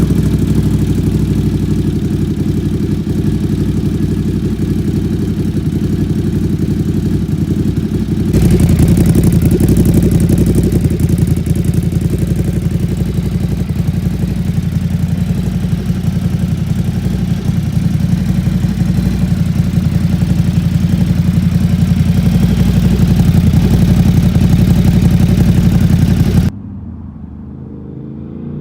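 2017 Ducati Supersport S's 937 cc Testastretta L-twin idling cold after starting, through a Competition Werkes exhaust with its baffle fitted. The idle is steady and gets louder and brighter about eight seconds in. Near the end it cuts off abruptly and is replaced by a quieter engine sound rising in pitch.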